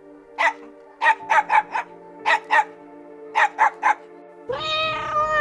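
A dog barking: about ten short, sharp barks in quick groups of two to four. Near the end a cat's long meow begins. Background music plays throughout.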